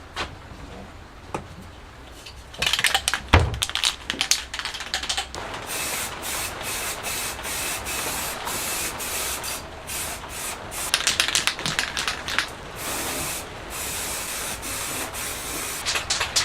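Aerosol spray can in use: rapid rattling clicks of the can being shaken, alternating with stretches of spraying hiss that stop and start. The pattern repeats: shake, spray, shake again, spray.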